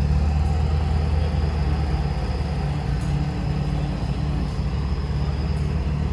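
Car engine idling: a steady low rumble that holds the same pitch throughout.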